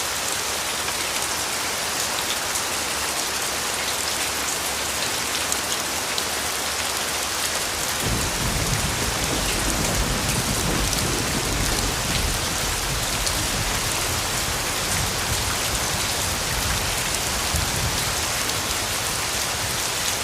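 Steady heavy rain falling on a surface, a dense hiss with fine drop impacts throughout. About eight seconds in a deep low rumble joins and continues under the rain.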